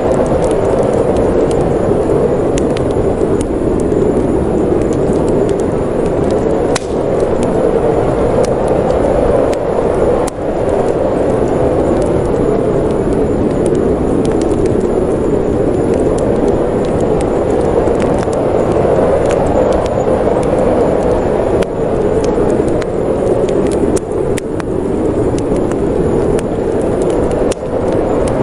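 Snowstorm wind blowing in a steady low rush, with the scattered small pops and crackles of a wood fire in a fireplace.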